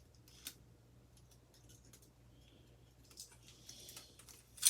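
Light clicks and taps of ceiling fan motor parts being handled: a single click about half a second in, then scattered small clicks building to a sharp click near the end.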